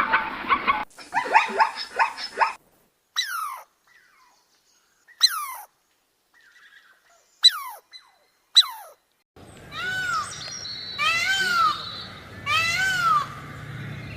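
A string of different animal calls in quick succession. First a call that stops about a second in, then a short noisy call. Then four short calls, each falling steeply in pitch, one to two seconds apart, and last a run of five short pitched calls that rise and fall, about half a second each.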